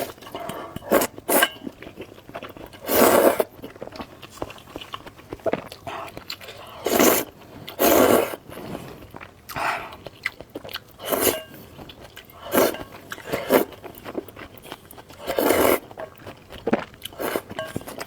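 Close-up eating sounds of a person biting and chewing a mouthful of malatang, in irregular bursts with several louder ones.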